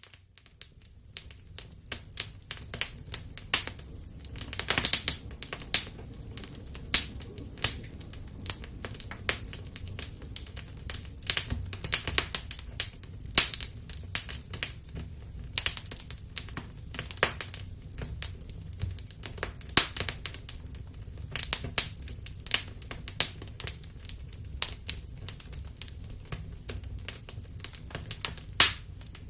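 Wood fire burning in a fireplace, crackling and popping irregularly over a low, steady rumble of flames.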